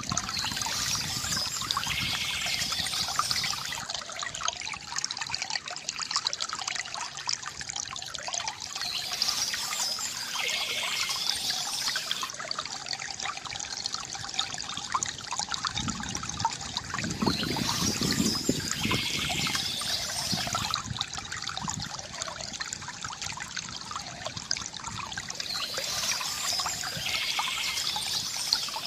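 Water trickling and gurgling from a bamboo fountain spout into a basin, a steady flow with a pattern that repeats about every eight seconds.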